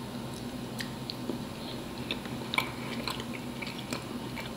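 Two people chewing soft cookies in their mouths, heard as scattered small wet mouth clicks, over a faint steady low hum.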